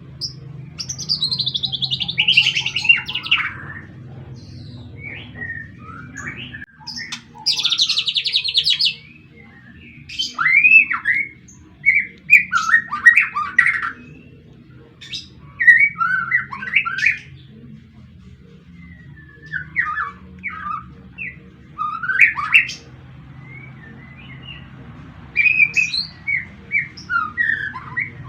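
Six-month-old juvenile white-rumped shama singing: two fast, buzzy, rattling trills, then a run of short whistled phrases with sliding notes. A steady low hum lies underneath.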